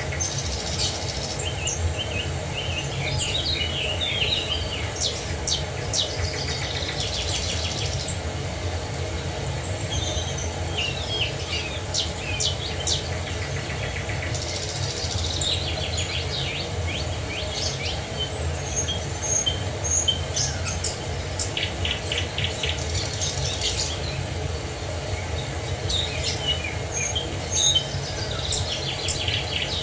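Several songbirds chirping and trilling over the steady low rush of a waterfall.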